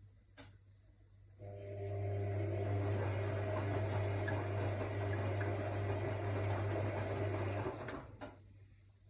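AEG Lavamat L62850L washing machine moving water: a click, then a steady electric hum with rushing water for about six seconds, cut off with a couple of clicks near the end.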